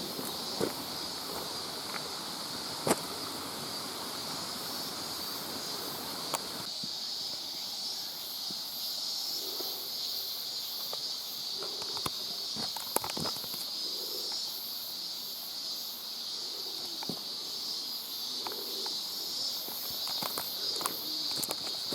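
Footsteps on a wet, rocky trail with scattered sharp clicks and clatters from the old video camera's loose monitor, over a steady high-pitched drone.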